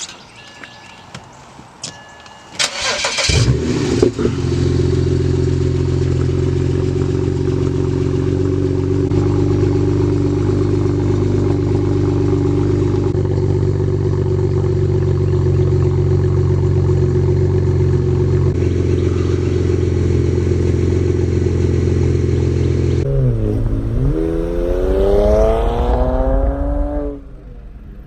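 BMW 335i twin-turbo straight-six with its mufflers deleted, started up: it catches about three or four seconds in with a brief flare, then idles steadily and loud. Near the end the revs dip and then climb in a long rev before the sound drops away.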